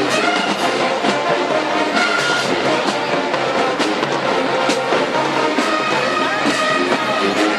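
Marching band playing: full brass section with trumpets and trombones over drumline percussion, at a steady loud level.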